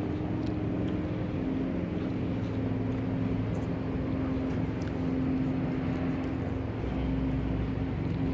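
Classic BSA motorcycle engine idling at a steady pitch.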